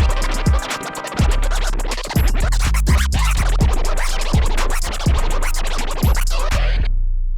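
A DJ scratching a vinyl record on a turntable in quick, dense strokes over a hip hop beat with deep bass kicks; the sound cuts out almost completely for a moment near the end.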